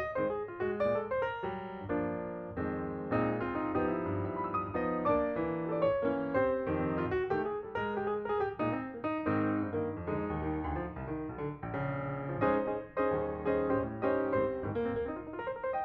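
Background piano music: a continuous run of struck notes with a bass line.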